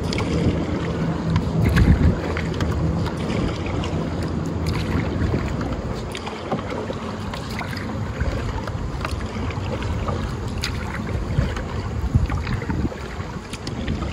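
Strong wind rumbling on the microphone over water slapping and splashing against a kayak's hull in choppy water.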